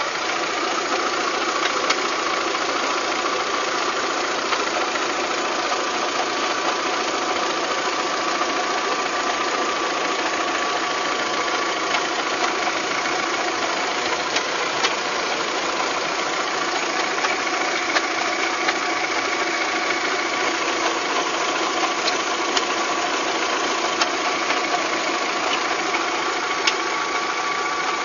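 Volkswagen Golf 3 engine running steadily with an abnormal noise: a steady whine over the running sound, and sharp ticks at irregular intervals.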